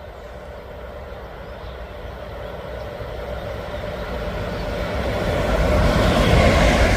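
Train approaching on the line, its running noise growing steadily louder over several seconds.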